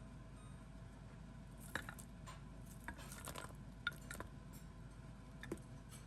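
Quiet kitchen sounds: a few scattered light clinks and knocks of dishes and utensils, with a short rustle in the middle.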